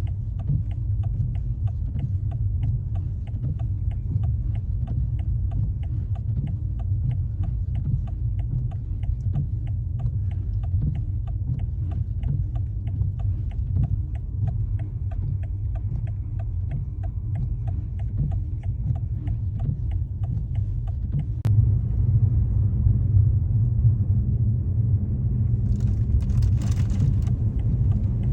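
Car driving, a steady low road rumble, with an even ticking about two or three times a second. The ticking stops with a sharp click about 21 seconds in, and the rumble then grows louder. A brief hiss comes near the end.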